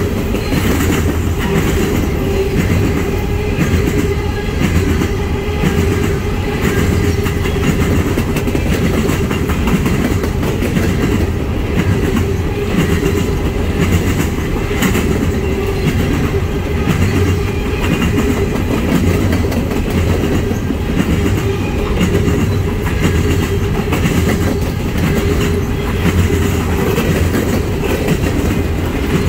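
Coal gondolas and hoppers of a long freight train rolling past close by: a steady rumble of steel wheels on rail with a repeating clickety-clack of wheels over the rail joints.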